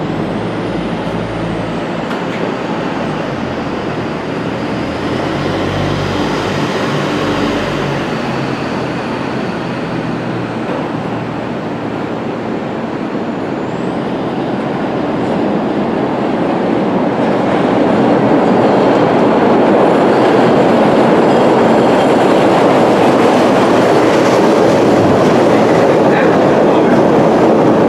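Chicago CTA 'L' rapid-transit train running on its rails, a steady rumble with a faint high whine rising and falling in the first half. It grows louder from a little past halfway and stays loud as the train draws close.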